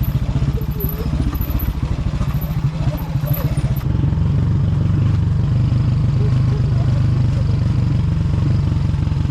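Motorcycle engine running while being ridden, a steady rapid train of low firing pulses; it grows louder and steadier about four seconds in.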